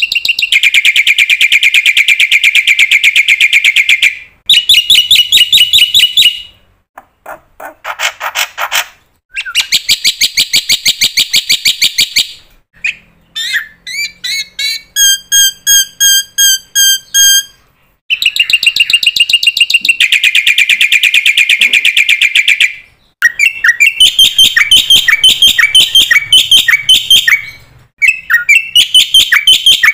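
Songbird singing loudly and close by: a run of rapid trilled phrases, each a few seconds long and changing pattern from one phrase to the next, with a slower series of separate whistled notes in the middle.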